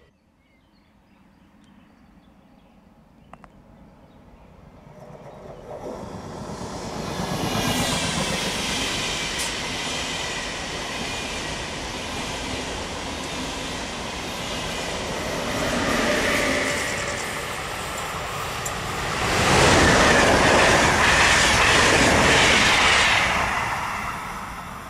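ÖBB Railjet passenger train passing: its wheel and rail noise builds over a few seconds as it approaches, then holds as a steady rush while the carriages go by. It is loudest for a few seconds near the end and drops off suddenly as the end of the train passes.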